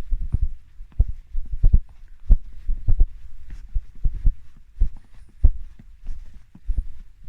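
Footsteps on snow, heard as a steady walking rhythm of dull low thuds, roughly one every half to two-thirds of a second.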